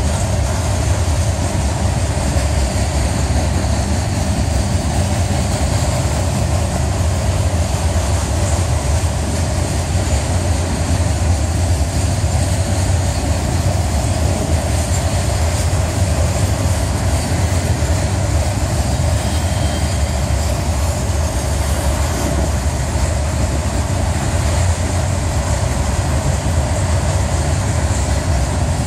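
Freight cars, steel-coil cars giving way to gondolas, rolling past at speed on the main line: a loud, steady rumble of steel wheels on rail.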